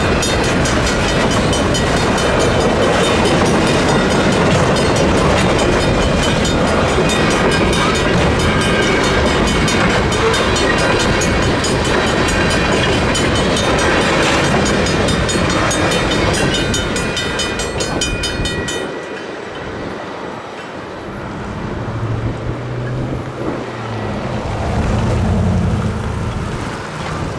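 Freight train cars rolling over the crossing with steady wheel clatter, while the crossing's Safetran mechanical bell rings rapidly. About 19 seconds in the clatter and ringing stop abruptly, leaving a quieter low engine hum.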